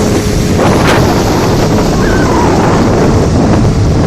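Steady wind buffeting the microphone aboard a moving motorboat, over the rush of water and the boat's engine.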